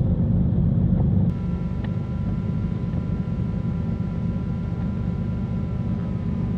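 Cessna 310Q's twin piston engines running at low power while taxiing, heard from the cockpit as a steady low drone.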